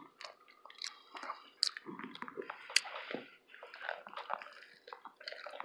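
A person chewing a mouthful of breakfast burrito, quiet, with irregular small clicks and smacks.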